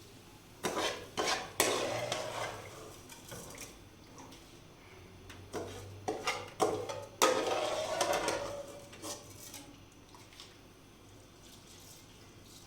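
A series of sharp knocks and clanks of hard objects, each with a short ringing tail, in two clusters, the second one the loudest.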